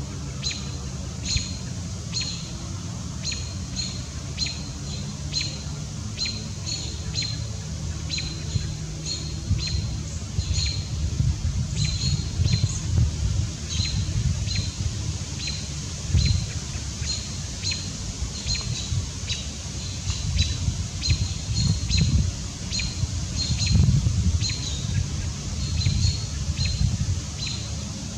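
Short, high bird calls repeated about twice a second without a break, over a low rumble of road traffic that swells several times.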